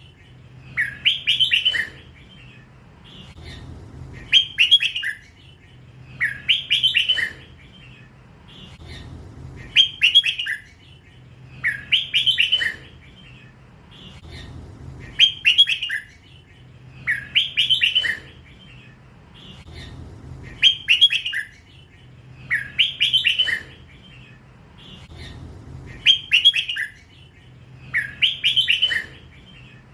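Young hybrid red-whiskered bulbul singing the same short phrase over and over, about every three seconds: the drawn-out 'lak wai' song style that bulbul keepers prize.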